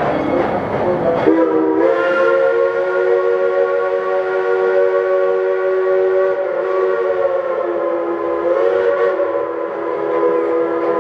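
Steam chime whistle of Tweetsie Railroad's locomotive No. 190 blowing one long chord, starting about a second in, dipping slightly in pitch midway and rising again.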